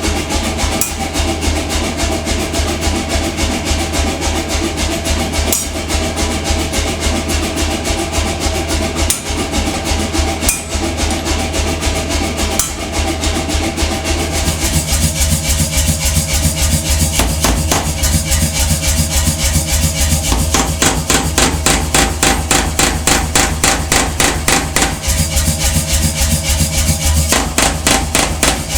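Power hammer pounding hot steel in rapid, even blows over a steady motor hum. The blows become faster and a little louder about halfway through.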